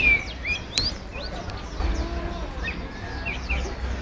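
Many caged songbirds chirping and whistling: short, quick calls that sweep up and down in pitch, overlapping from several birds, over a low steady rumble.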